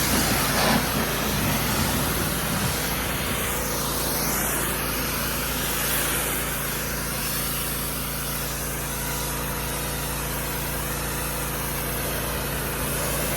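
Pressure washer running steadily: the even hum of a small engine under the hiss of the water spray, the hiss shifting as the jet is swept about four seconds in.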